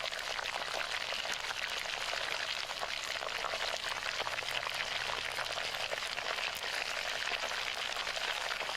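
Steady sizzling and crackling of fish cooking over an open fire, a dense run of small pops that cuts off suddenly at the end.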